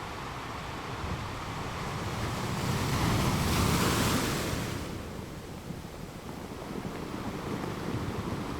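Ocean waves on a shore: a wave swells and breaks about three to four seconds in, then washes back, over a steady hiss of surf.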